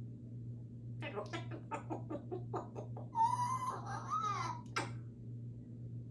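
African grey parrot making a quick run of clucking notes, then a wavering whistle about three seconds in, ending with a sharp click.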